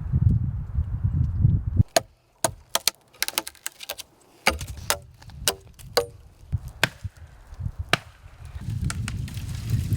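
Sharp chopping knocks on wood, a dozen or so strikes in quick, irregular succession from about two seconds in until about eight seconds. A low rumbling noise comes before and after the strikes.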